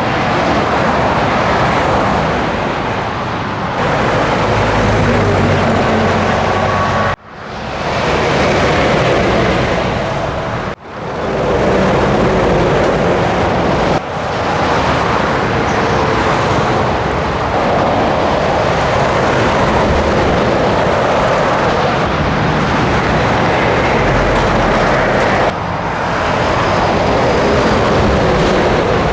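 Scania truck on the road: engine running under the steady rush of tyre and road noise. The sound drops out sharply twice, about 7 and 11 seconds in, and swells back each time.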